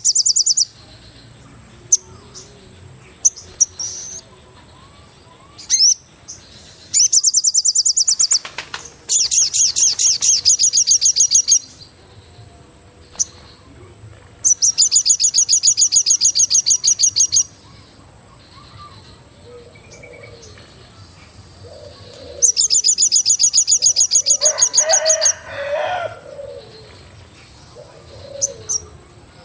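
Forest birdsong: a high-pitched rapid trill comes in loud bursts of two to three seconds, four times, with scattered short chirps. Soft, low, dove-like calls come in the second half, over a faint steady high whine.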